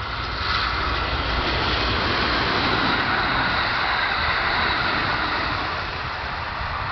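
Kintetsu limited express electric train running past, a steady rushing of wheel and motor noise that builds over the first second and eases slightly near the end.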